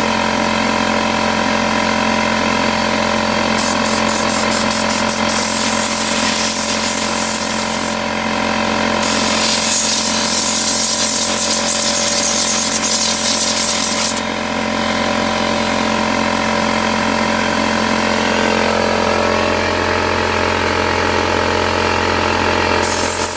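Small descaling pump running steadily, circulating descaling solution through a tankless water heater's heat exchanger, with a hiss of rushing liquid that comes and goes above the drone.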